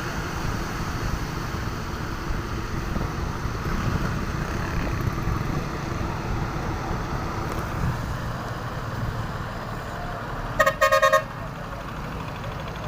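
Steady low rumble of a vehicle, then a truck horn sounds near the end: one short toot followed by three quick toots in a row, the loudest thing here.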